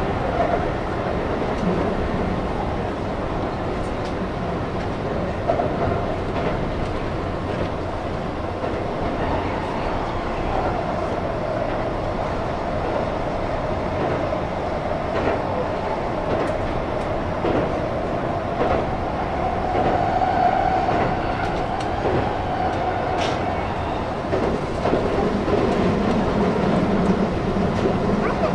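Keihan electric train running at speed, heard from inside the leading car: a steady rolling rumble of wheels on rail with scattered clicks over the rail joints and a faint hum that swells and fades.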